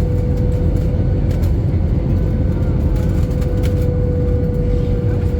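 Steady airliner cabin noise from an Airbus A320 in flight: a loud, even rumble of engines and airflow, with a constant hum running through it.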